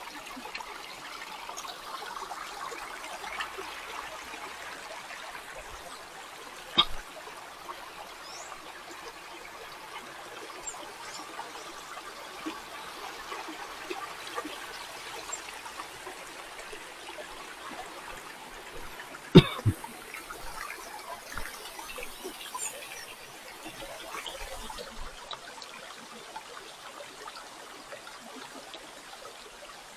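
Water trickling and flowing steadily over rocks in a stream. There are two sharp knocks, one about seven seconds in and a louder one around the middle.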